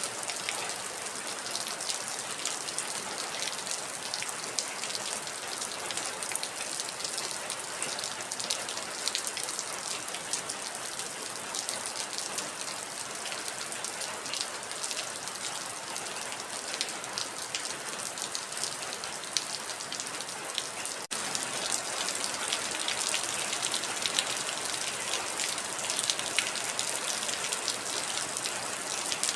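Heavy rain: a steady hiss thick with the patter of individual drops. It cuts out for an instant about two-thirds of the way through and comes back slightly louder.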